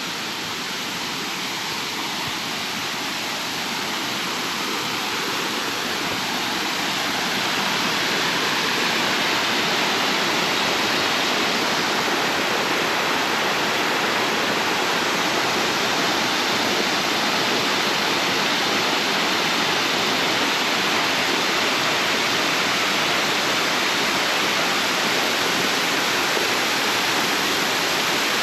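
Water rushing over a low waterfall and down the creek: a steady, even hiss that grows louder over the first several seconds, then holds.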